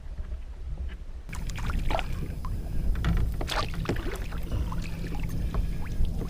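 A hooked chain pickerel being brought alongside a kayak: water splashing, with a run of sharp knocks and rattles against the boat that starts about a second in and is busiest in the middle.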